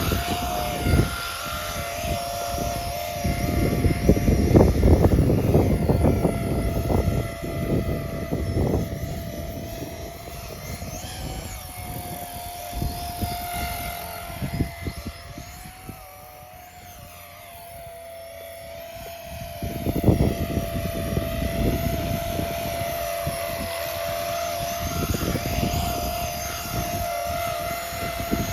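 Walkera DQ59 EC155 Dauphin electric RC helicopter hovering, its brushless motors and rotors giving a steady whine that wavers slightly in pitch. Gusts of wind rumble on the microphone, heaviest in the first few seconds and again about two-thirds of the way in.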